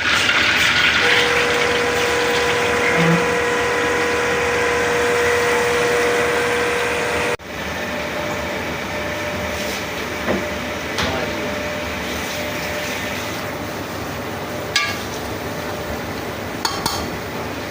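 Kitchen clatter: metal utensils clinking and knocking against cookware over a steady hiss, with a few sharp clinks near the end. The sound breaks off abruptly about seven seconds in and picks up again.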